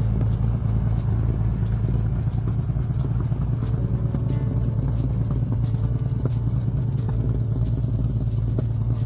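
1950 Chevrolet 235 straight-six, fitted with Fenton dual carbs and dual exhaust, idling steadily with an even low rumble.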